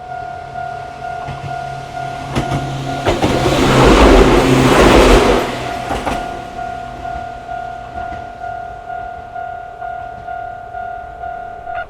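Level-crossing warning bell ringing in a steady repeating tone while a Gakunan Railway train passes over the crossing. The train rises to its loudest about four to five seconds in, with wheels clacking over the rail joints, then fades as the bell keeps ringing.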